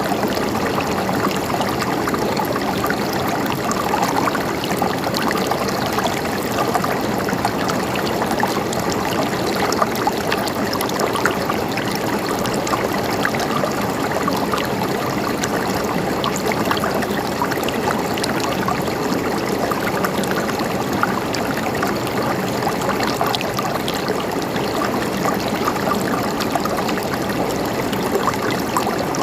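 A river or stream flowing, a steady even rush and babble of water over rocks with no change in level.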